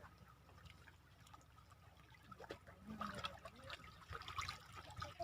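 Faint water trickling and lapping at the shore, with scattered light clicks.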